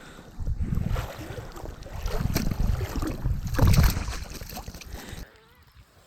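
Water splashing and sloshing, with wind rumbling on the microphone, cutting off suddenly near the end.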